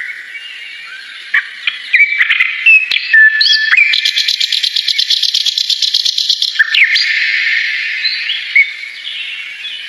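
A small bird singing: whistled gliding notes and chirps, with a fast rattling trill of about ten pulses a second from about four to nearly seven seconds in. A few sharp clicks come in the first three seconds.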